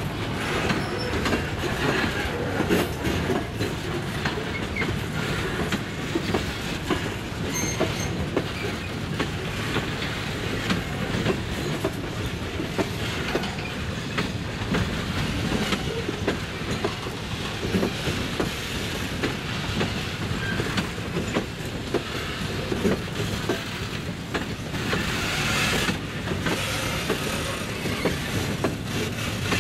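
Freight train cars rolling past close by, their wheels clacking over the rail joints in a steady stream of knocks over a continuous rolling rumble.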